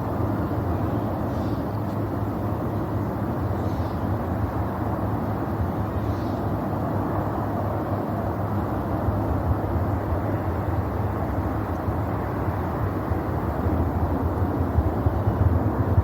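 Distant rumble of a SpaceX Falcon Heavy rocket's engines during launch: a steady, deep, noisy rumble that grows a little louder near the end.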